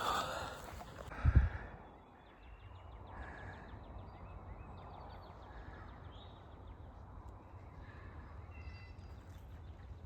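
Hiker's footsteps on a grassy path, with a single thump about a second in. Faint high chirps and a rapid ticking trill sound in the background.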